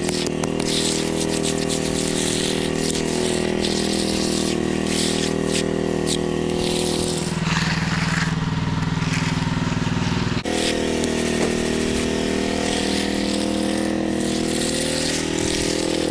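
An engine running steadily under a hiss of spraying water. Just after the middle its note shifts lower and fuller for about three seconds, then snaps back sharply.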